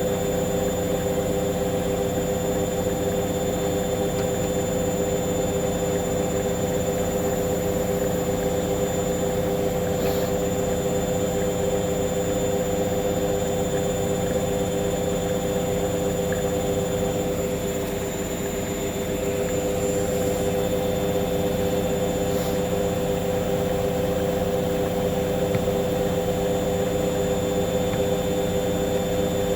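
Hoover washing machine in its final spin, drum motor running steadily with a constant whine, dipping slightly about eighteen seconds in.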